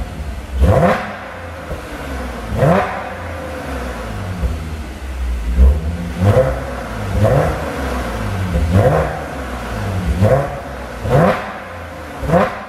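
Audi S5's supercharged 3.0T V6 exhaust, an APR RSC system, as the engine is blipped through a series of short revs, each rising sharply and dropping back to idle, about every one to two seconds.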